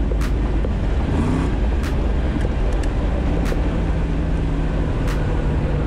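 Twin-turbo Cutlass engine running, heard from inside the cabin as a steady low drone. A few faint clicks come about every second and a half.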